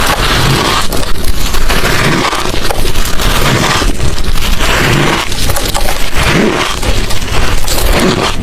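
Hard crushed ice and shaved ice chunks being bitten and chewed close to the microphone: a loud, continuous run of crunches.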